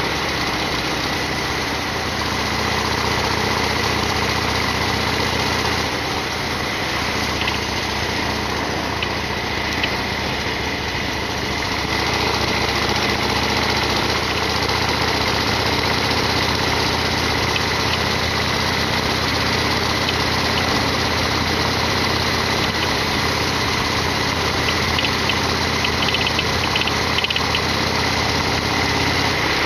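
Harley-Davidson Sportster XL1200R's 1200 cc V-twin engine running at a steady pace, its level dipping slightly about six seconds in and rising again about twelve seconds in.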